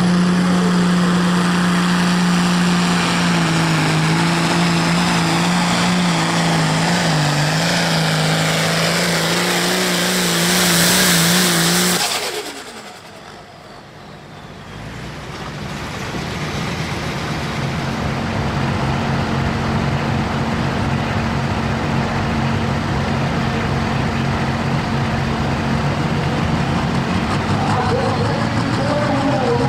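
Super stock pulling tractor's turbocharged diesel engine running hard under load, its high-pitched note building. About twelve seconds in it drops away abruptly. After a short lull a tractor's diesel engine is running again and builds steadily.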